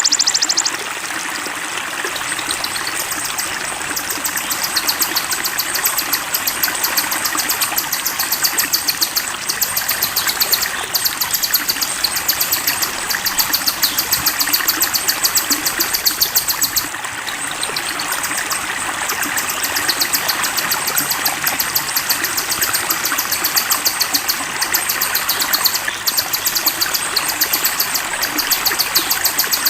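A songbird's very fast, high-pitched trill, repeated in long runs with short breaks, over the steady rush of flowing water.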